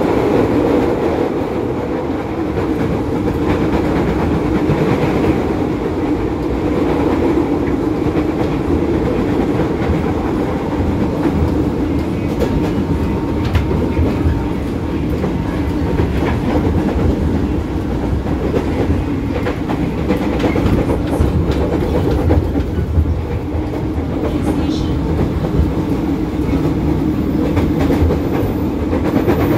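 JR 205 series electric commuter train heard from inside the carriage while running at speed: a steady rumble of wheels on the track, with sharp wheel clicks over the rail scattered through the middle.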